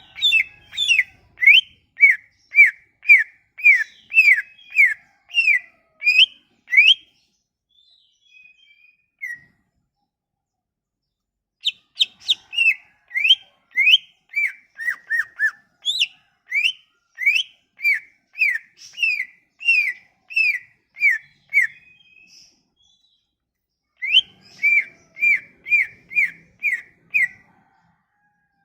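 Cucak ijo (greater green leafbird) singing runs of short, sharp whistled notes, about three a second. There are three runs, broken by pauses of a few seconds.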